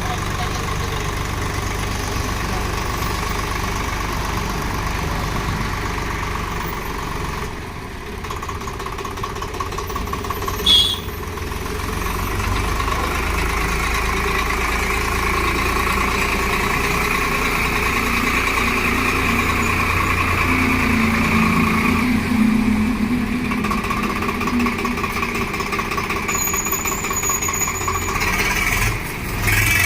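Swaraj 744 FE 4WD tractor's diesel engine running steadily. It dips briefly about eight seconds in, there is a short sharp click near eleven seconds, and then it runs somewhat louder.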